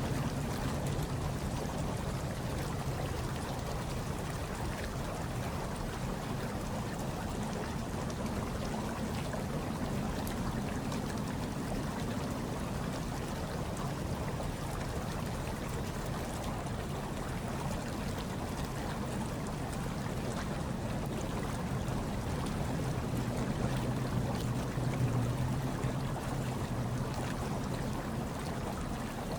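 Hot tub water bubbling and churning steadily, with a low steady hum underneath that swells slightly near the end.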